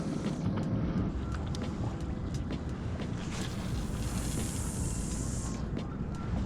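Wind buffeting the microphone over water around a fishing kayak, with a steady low rumble. A brief hiss comes in about four seconds in, lasts about a second and a half, and cuts off sharply.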